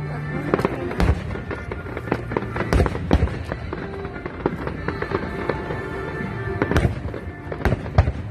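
Fireworks going off, many sharp bangs and crackles in quick irregular succession, heavier around one, three, seven and eight seconds in, with music playing underneath.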